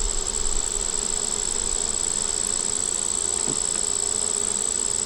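Honey bees buzzing in a steady, even drone around an opened hive, with a steady high-pitched whine over it.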